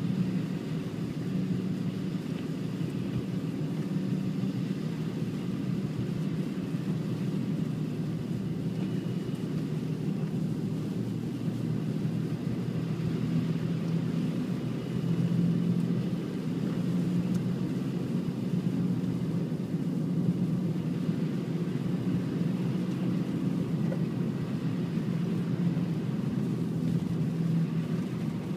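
A steady low rumble with a faint wavering hum, running on with no sudden sounds.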